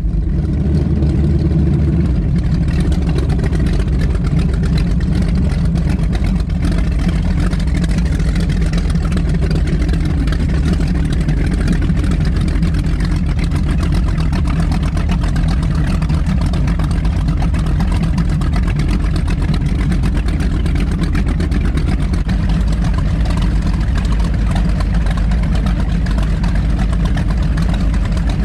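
Twin V8 engines of an Avanti 33 powerboat running steadily, with an even rushing noise over them.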